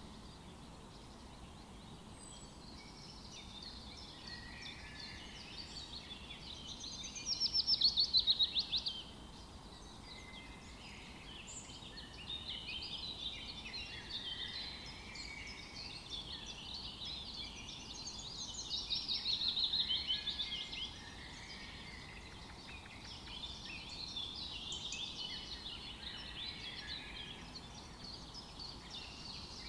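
Forest birdsong: several songbirds chirping and singing without pause. Two louder, rapid trilled phrases stand out, one about 7 seconds in and one about 19 seconds in.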